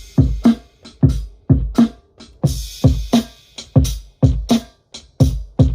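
Boom-bap hip-hop drum beat played back from an Akai MPC 500 sampler: punchy kick and snare hits in a steady swung pattern, with a cymbal-like hiss about halfway through.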